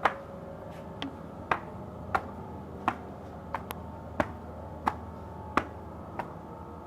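Sharp snaps or clicks in a steady rhythm, about three every two seconds, over a faint steady hum.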